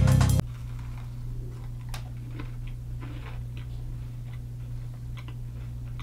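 Music cuts off suddenly just after the start. Then a man chewing a chocolate chip cookie: faint, irregular small mouth clicks over a steady low hum.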